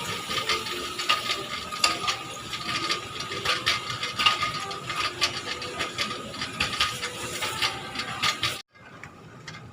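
Continuous rapid mechanical clicking and rattling over a faint steady high tone, which stops abruptly about a second before the end.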